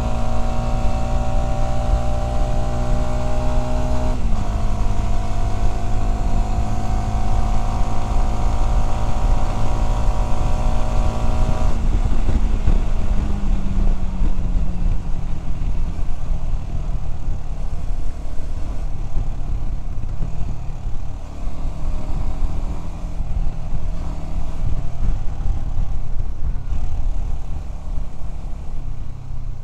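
Voge 300DS motorcycle engine under way, its pitch climbing steadily as it accelerates, with an upshift about four seconds in. About twelve seconds in the throttle is closed and the engine note falls away, leaving mostly wind and road rush as the bike rolls on.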